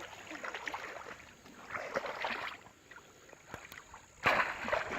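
Water splashing and sloshing in bursts, with a sudden louder splash a little past four seconds in.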